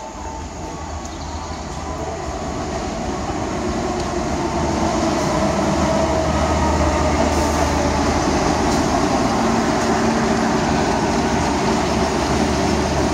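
A CC201 (GE U18C) diesel-electric locomotive and its passenger coaches approach and roll past on the station track. The engine's low hum and the wheel-on-rail noise grow steadily louder over the first half, then hold loud and steady as the coaches go by.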